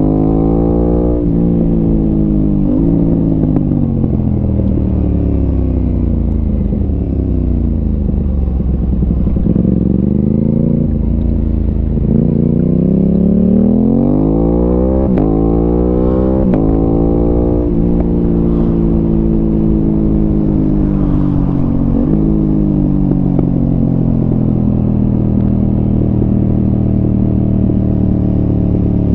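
Aprilia RS 660 parallel-twin engine through an SC Project exhaust while riding. It revs up and shifts up about a second in, then winds down slowly with a short blip early on. From about the middle it accelerates hard through three quick upshifts, each a sudden drop in pitch, then settles to a steady cruise over a constant rush of wind and road noise.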